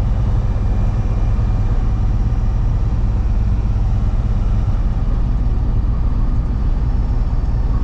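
Freightliner box truck's engine and road noise heard inside the cab while cruising in highway traffic: a steady, loud low rumble with no change in pace.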